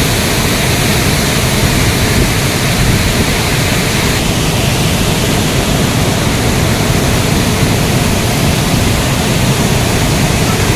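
Steady, loud rush of a large waterfall, with the hiss turning slightly duller about four seconds in.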